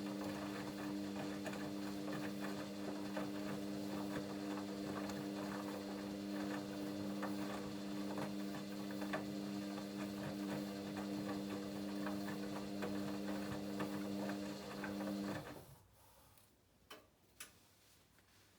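Hoover Dynamic Next washing machine running: a steady hum with a ticking, rattling texture, which cuts off abruptly about fifteen seconds in, followed by two faint clicks.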